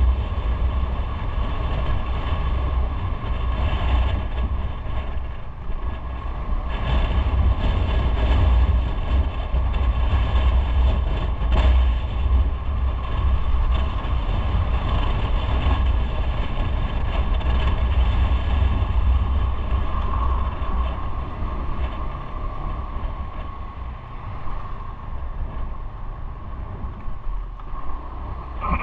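Motorcycle underway on the road: its engine runs steadily under a heavy, fluttering wind rumble on the microphone.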